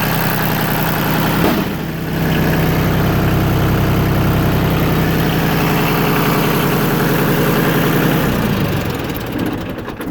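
Yanmar YM2010 compact tractor's three-cylinder diesel engine idling steadily and sounding healthy, its sound fading away near the end.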